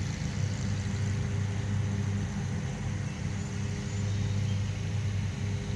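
Steady low hum of an idling vehicle engine, running evenly throughout.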